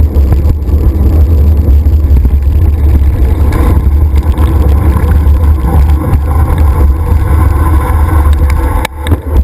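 Loud, steady low rumble of wind buffeting the microphone of a camera carried along on a moving mountain bike, with rolling noise underneath. It drops away suddenly near the end.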